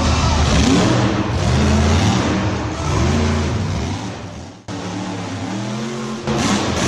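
Car engine revving, its pitch rising and falling several times, with a sudden cut-out about two-thirds of the way through before it picks up again.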